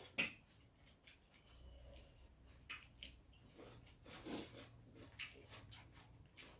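Quiet eating sounds: fingers squishing rice and fish curry and mouths chewing, with scattered light clicks, the sharpest just after the start.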